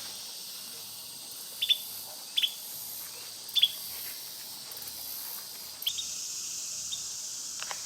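Insects droning steadily in summer woods, with a bird giving about six short, sharp chirps scattered through.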